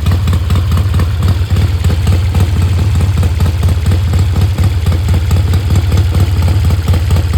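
Custom-built engine idling steadily with a rapid, even exhaust beat.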